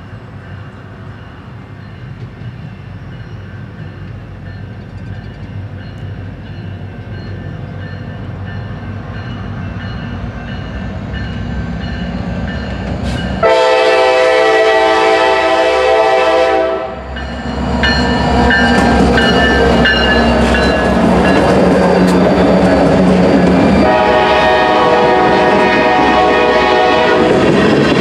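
Freight train led by diesel locomotives approaching and growing steadily louder, then a loud, long horn blast about halfway through lasting about three seconds. The locomotives pass close with engine rumble and more horn sounding, and the tank cars roll by on the rails.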